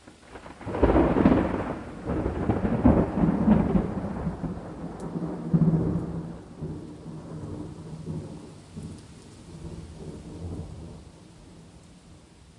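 A thunderclap breaks about a second in and rumbles on, loudest for the first few seconds and then dying away in swells, over a faint steady rain hiss.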